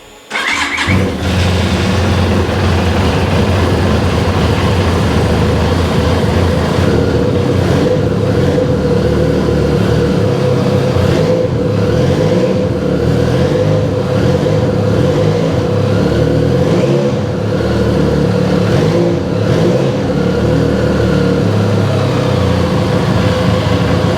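Benelli Leoncino 500's 500cc parallel-twin engine being started: a brief whir of the starter, then it catches and idles steadily.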